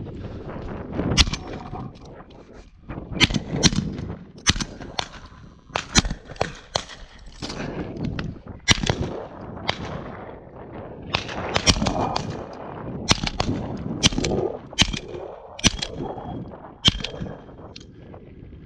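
Several hunters' guns firing at pigeons: a rapid, irregular string of more than twenty sharp shots, some overlapping in quick pairs and triplets.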